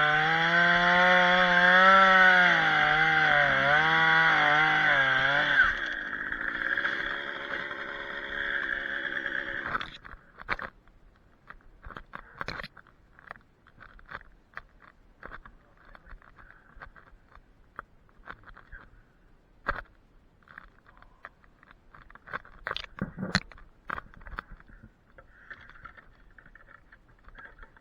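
Chainsaw running hard, its pitch wavering under load as it cuts, easing off about six seconds in and stopping about ten seconds in. Scattered sharp knocks and clicks follow, the sharpest near the end.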